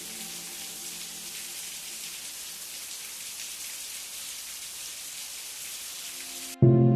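Steady rain hiss, with soft held music tones fading out in the first second. Near the end the rain cuts off abruptly and a loud held music chord comes in.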